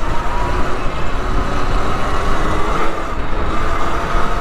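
Motorcycle engine running, its pitch rising slowly and steadily as it gains speed, under heavy wind rumble on the microphone.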